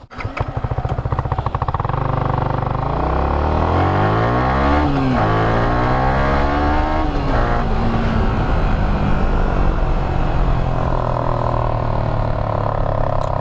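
Yamaha R15 v3's 155 cc single-cylinder engine running through its stock exhaust with the dB killer cut, pulling away and accelerating. The engine pitch climbs, drops sharply at gear changes about five and seven seconds in, then holds steady.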